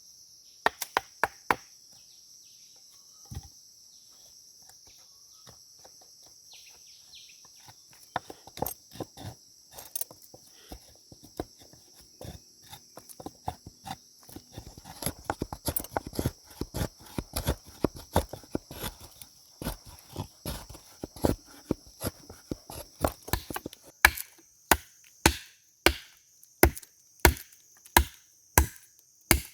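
Wood being chopped with a blade. A few scattered strikes come first, then denser, uneven chopping, which settles near the end into steady blows about one and a half a second apart. A steady high insect buzz runs underneath.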